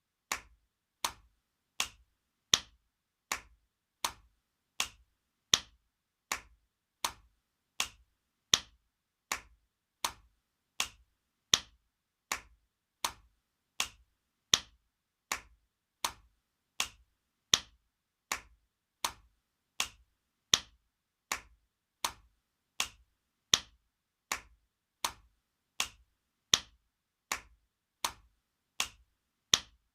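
Spanking sound effect: sharp hand slaps on skin, repeated evenly about every three-quarters of a second, some louder than others.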